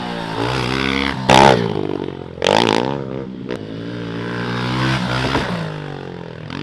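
Dirt bike engine revving up and down as it is ridden, with two sharp blips of the throttle about one and two and a half seconds in.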